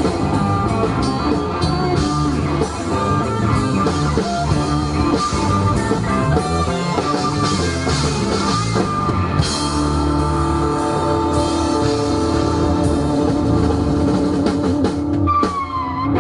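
Live rock band playing a mashup song, with guitar and drum kit.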